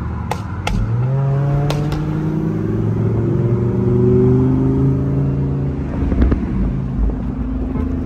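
Car engine running under way, its pitch climbing and shifting with the revs, with a few sharp clicks in the first two seconds.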